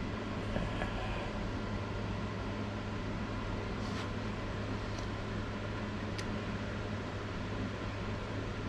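Steady low machine hum in a machine shop, with three light clicks about four, five and six seconds in.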